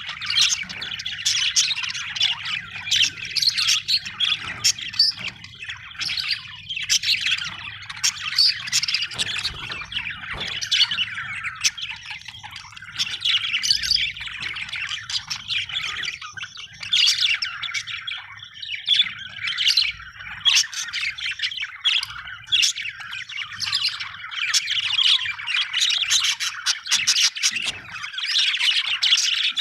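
Budgerigars chattering and chirping without pause, many short high notes overlapping.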